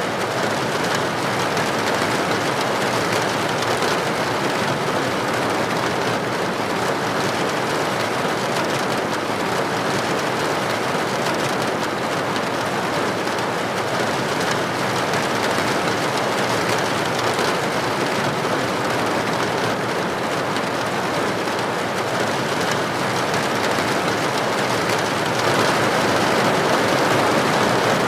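Steady rain falling, a dense, even hiss of drops on a window or roof, growing slightly louder near the end.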